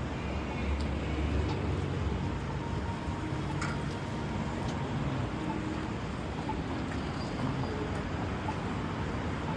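Downtown street ambience: a steady low traffic rumble with a few scattered short clicks and knocks.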